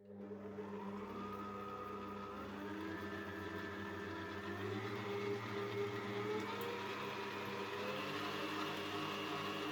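A motor running steadily with a low hum and a whirring tone whose pitch slowly rises and shifts.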